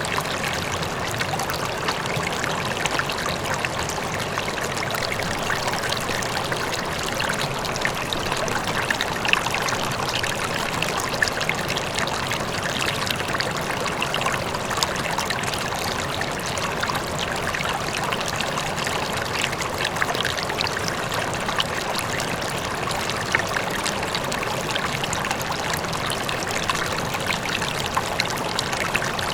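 River water flowing steadily over stones, a continuous rushing with small splashes and gurgles, with a waterfall far off.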